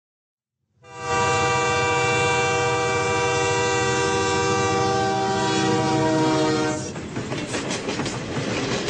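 A train horn sounds one long, steady blast for about six seconds, then gives way to a rhythmic clickety-clack of train wheels on rail joints.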